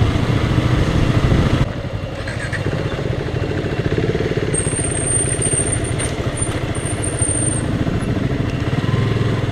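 Single-cylinder Yamaha R15 V2 motorcycle engine running steadily while riding, with road and wind noise; the sound drops a little and changes abruptly a couple of seconds in.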